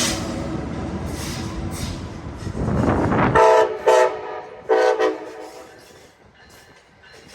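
A train rumbling past for about three seconds, then a locomotive horn sounding three short blasts, the last a little longer, before the sound fades away.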